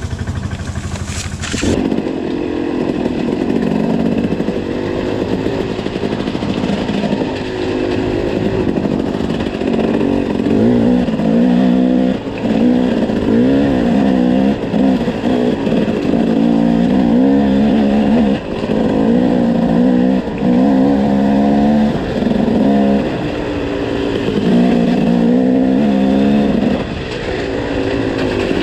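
KTM enduro motorcycle engine ticking over briefly, then pulling away about two seconds in. It revs up and down over and over as the throttle is opened and closed and the gears change on the trail.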